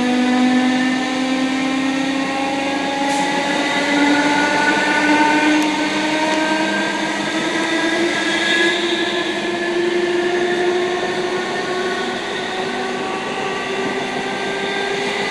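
Passenger train running under power, its drive giving a whine from beneath the carriage that rises steadily in pitch as the train picks up speed, over the rumble of the wheels on the track.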